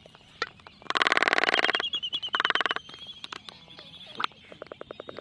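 A bird's call: two loud bursts of very rapid rattling pulses about a second apart, the first longer, followed by a faint high warbling tone and a few scattered clicks.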